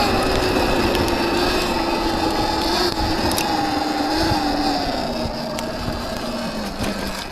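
Viper S electric dirt bike's motor whining steadily under throttle, its pitch sinking lower near the end as it slows, over the low noise of the tyres churning through mud.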